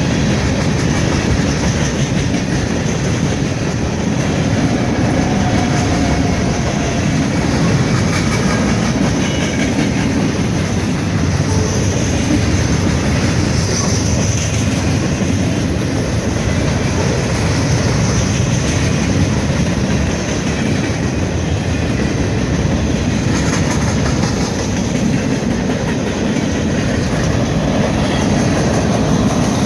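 Norfolk Southern freight train's cars rolling past, a steady rumble with wheels clattering over the rail joints.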